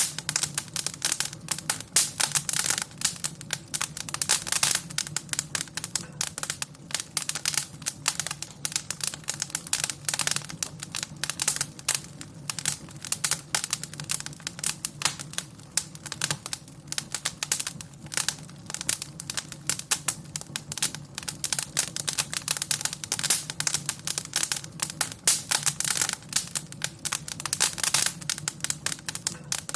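Wood fire burning in a fireplace: dense, irregular crackling and popping over a low steady rumble of flame.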